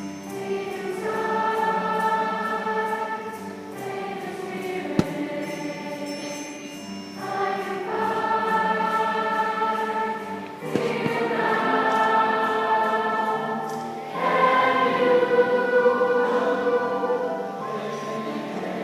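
Young choir singing sustained chords in phrases of a few seconds each. A single sharp click is heard about five seconds in.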